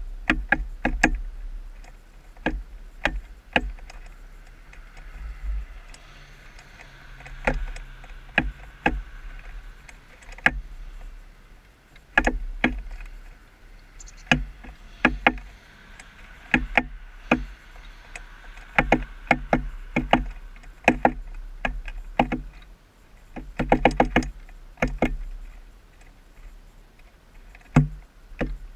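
Downy woodpecker pecking at a bird feeder close to the microphone: sharp taps, some single and some in quick runs of several, over a low steady rumble.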